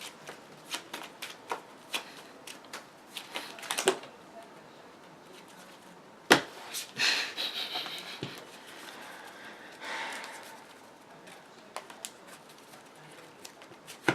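Trading cards being handled while a deck is searched: a run of light card clicks and flicks, then a sharp snap about six seconds in followed by a short rustle of cards sliding or shuffling.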